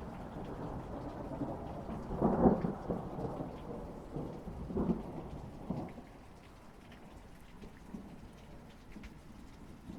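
Thunder rumbling through steady rain. The rumble breaks into its loudest crack about two and a half seconds in, with smaller claps near five and six seconds, then dies away, leaving the rain.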